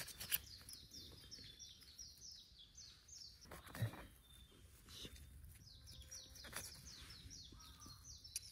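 A small bird singing long runs of short, high, falling notes repeated several times a second, one run in the first half and another after a pause of about two seconds. A few soft rustles and clicks of hands working in grass and pine needles.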